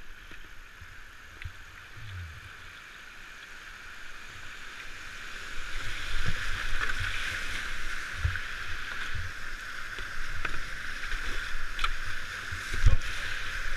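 Rushing river water heard from a kayak, getting louder about five seconds in, with occasional low knocks and bumps.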